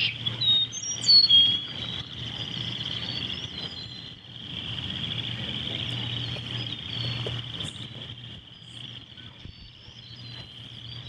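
Birds chirping and calling in short, scattered notes, over a steady high drone and a low hum.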